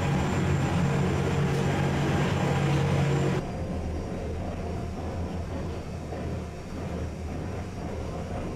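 Wengernalpbahn electric rack-railway train running, heard from inside the carriage: a steady low hum over rolling noise. About three and a half seconds in the sound drops suddenly to a quieter low rumble.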